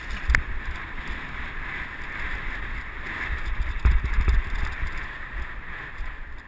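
Mountain bike being ridden, heard from a helmet-mounted GoPro: wind buffeting the microphone over a steady hiss of tyres rolling on a dirt trail, with a couple of sharp knocks from the bike, one just after the start and one about four seconds in.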